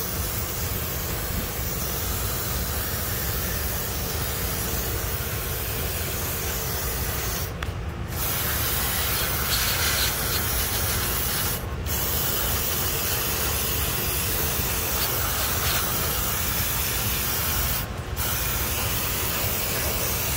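Aerosol can of contact cleaner spraying in long hissing bursts, broken by three brief pauses, washing oil off the hydraulic pump area to show where the leak comes from.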